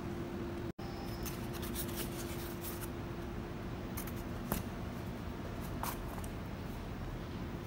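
Scattered light clicks and scratchy ticks, like small parts or tools being handled, over a steady low hum and hiss.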